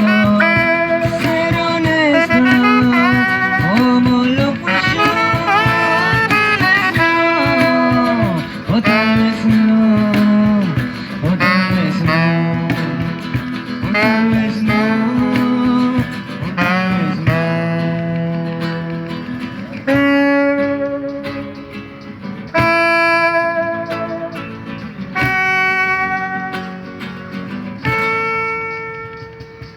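Band music playing an instrumental passage with a lead melody that bends between notes. From about two-thirds of the way through it moves to long held notes, and it fades out near the end as the song closes.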